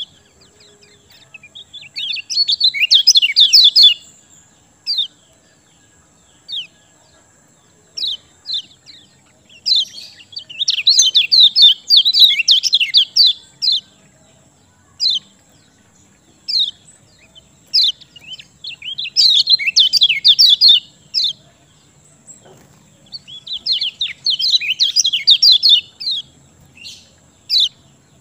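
Kecial kuning (lemon-bellied white-eye) singing: four bursts of fast, high twittering, each lasting two to four seconds, with single sharp chirps between them.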